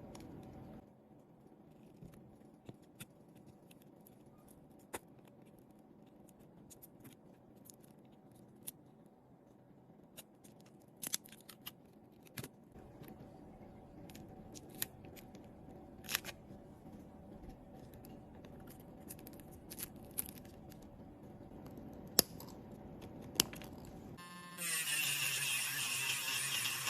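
Small sharp clicks and taps of repair tools on a phone's parts. Near the end a small motor starts with a rush of air; its hum falls in pitch and then settles into a steady drone.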